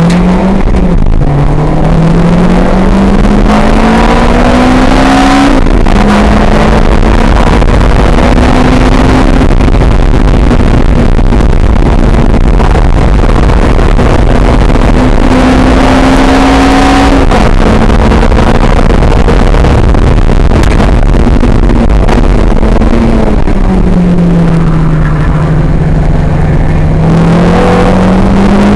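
Lotus sports car's engine heard from inside the open cabin, pulling hard through the gears. The note climbs and drops back at upshifts about a second in, around five and a half seconds in and again near seventeen seconds. It sinks lower as the car slows a little after twenty-two seconds, then climbs again near the end, under heavy wind and road noise.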